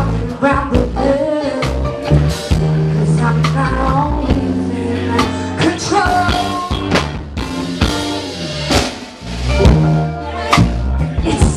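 Live band playing a pop-rock song: drum kit keeping a steady beat over a sustained bass line, with melodic instruments on top.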